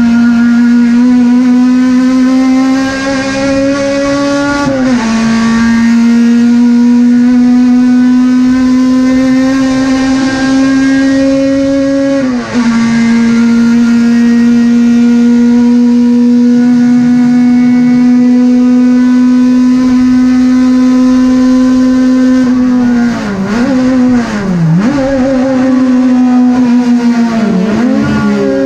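Touring race car engine at high revs under full throttle, with two upshifts about 5 and 12 seconds in and a long steady pull between them and the end. Near the end the revs drop and flare back up several times as the driver lifts and downshifts.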